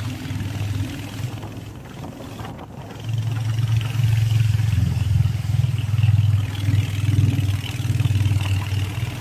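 Royal Enfield Hunter 350's single-cylinder engine and exhaust running on the move, with a low, even thump; the throttle opens about three seconds in and the exhaust note gets clearly louder and stays up.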